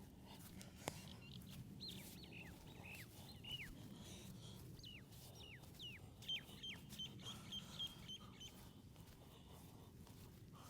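A bird calling faintly: a string of short downward-sliding chirps, then a quick run of short high notes about six seconds in, over a low steady background hum.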